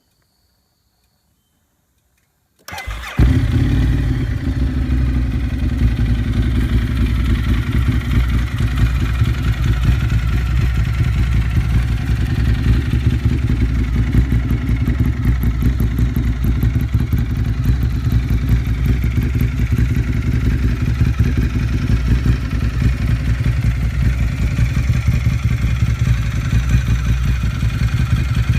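A 1000 cc motorcycle engine started after a moment of silence, catching about two and a half seconds in and then idling steadily through its exhaust.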